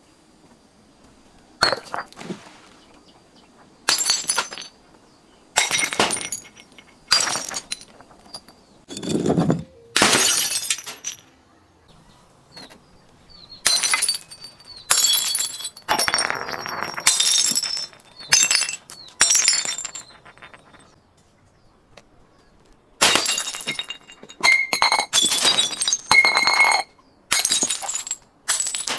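Glass bottles breaking one after another, each a sudden crash followed by tinkling and ringing shards, with a few short pauses between runs.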